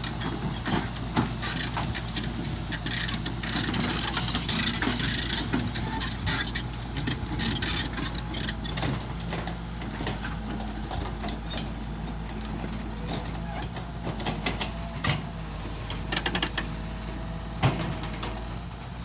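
Excavator's diesel engine running steadily, with scattered metallic knocks and clanks throughout and a burst of hiss a few seconds in.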